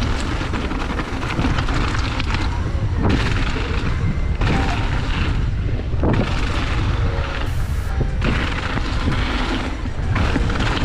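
Wind buffeting the microphone over the rumble and rattle of a downhill mountain bike's tyres and frame running fast over a dirt trail, with short knocks from bumps.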